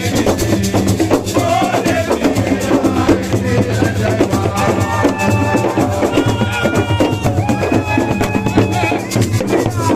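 Live band music with fast, dense drumming over a steady bass line, with held melodic notes coming in about halfway through.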